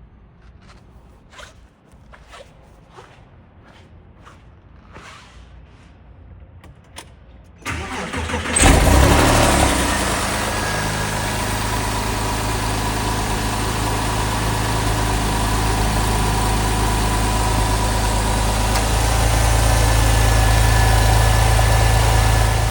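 Porsche 911 Carrera S 3.8-litre flat-six cold-started: after a few faint clicks, the starter cranks briefly and the engine catches about eight seconds in with a loud flare of revs, then settles into a steady idle.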